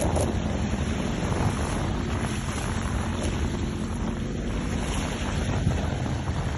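Steady wind noise buffeting the microphone over the rush of water along a moving sailboat's hull.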